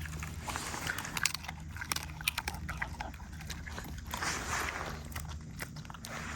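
Shiba Inu chewing and crunching a dry treat: a run of short, crisp crunches, over a steady low wind rumble on the microphone.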